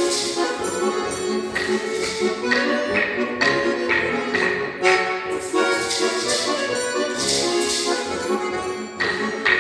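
A kozachok, a Ukrainian folk dance tune, played by a folk noise ensemble: a sustained melody line over hand percussion, with repeated splashy jingling hits.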